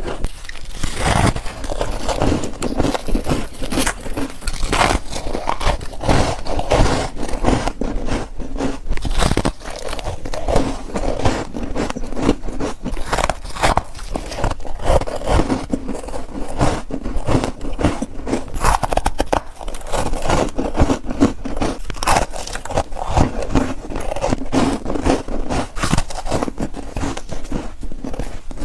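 Close-miked biting and chewing of chunks of freezer frost: a steady stream of crisp crunches and crackles, with some scraping in between.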